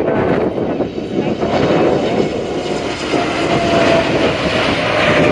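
Jet engines of a JAL Boeing 787-8 at takeoff power during its takeoff run. Over it lies a steady noise with a faint steady whine, and gusting wind on the microphone.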